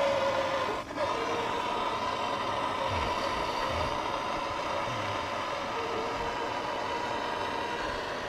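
Handheld gas torch burning with a steady hissing flame and a faint whistling tone, heating a seized bolt to free it. The flame dips briefly about a second in.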